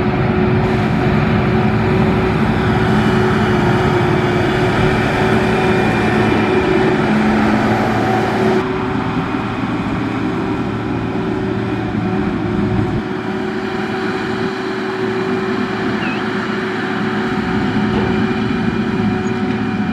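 Diesel engine of heavy road-construction machinery running steadily under work, with an abrupt change in the sound about nine seconds in.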